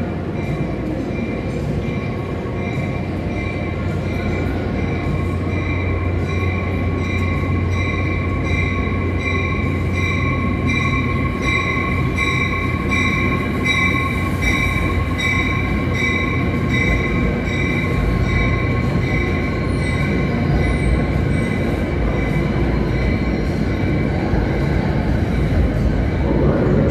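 NJ Transit commuter train's steel wheels rolling past on the rails with a rumble that builds, and regular clicking as the wheels pass over rail joints. A steady high-pitched squeal from wheels or brakes sits over it, strongest in the middle.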